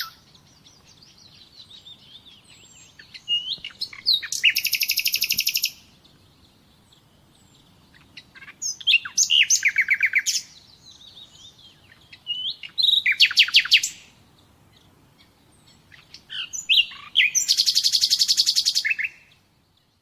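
A songbird singing: four phrases a few seconds apart, each a run of chirps rising into a fast trill, with faint chirping in the gaps.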